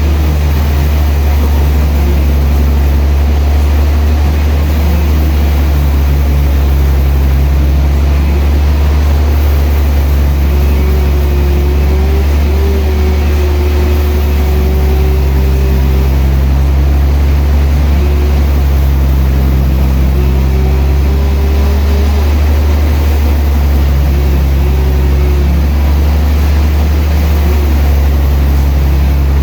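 Sawmill machinery running with a loud, steady low drone. A higher tone rises and fades at intervals over it.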